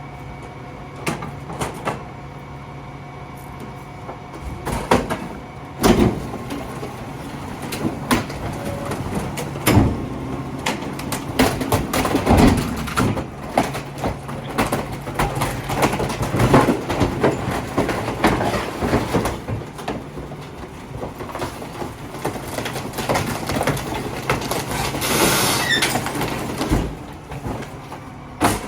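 Garbage truck's engine running steadily while a long run of bangs and clanks sounds, typical of the truck picking up and dumping a bin.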